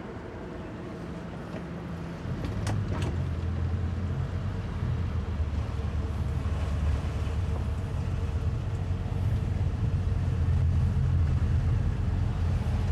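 The towboat's pair of 200 hp Suzuki outboard motors run low, then pick up about two seconds in and run louder and steadily as the boat gets under way. Two brief knocks come just after the engines pick up.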